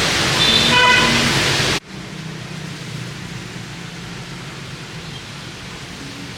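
Heavy rain hissing on a street, with a short vehicle horn toot about a second in. Just before two seconds in it cuts suddenly to softer, quieter rain with a faint low hum of traffic.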